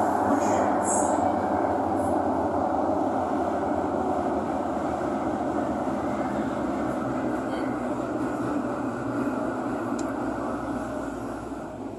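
Thomson-East Coast Line metro train heard from inside the car: the steady rumble of wheels on rail, with a brief high wheel squeal at the start. The running noise fades gradually and falls away near the end, as the train slows.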